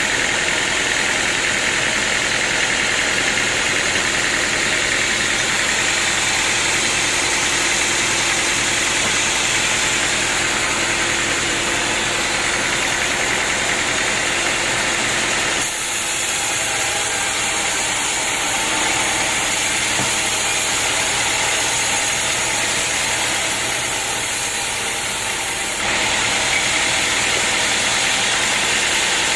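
Sawmill machinery running steadily: an engine-like drone with a constant high hiss. The sound changes abruptly about halfway through and changes back near the end.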